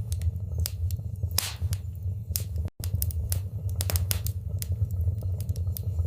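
Wood fire in a fireplace crackling, with irregular sharp pops and snaps of varying strength over a steady low rumble of burning. The sound cuts out for a split second about halfway through.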